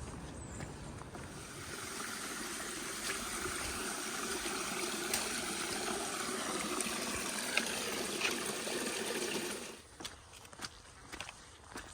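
Steady rushing of running water, building over the first couple of seconds and cutting off abruptly near the end, leaving only faint scattered ticks and taps.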